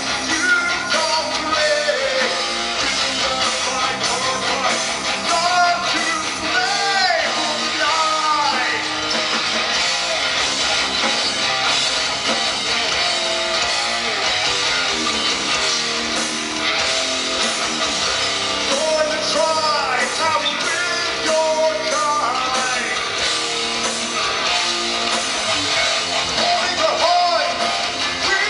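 Live rock band playing loud, with electric guitars and singing.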